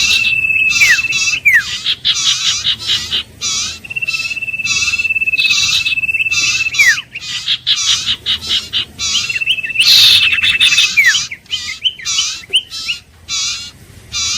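Iora song: a long, steady, high whistle held for a second or two that ends in a quick downward slur, given three times. It is set against a rapid run of short, repeated high chirps.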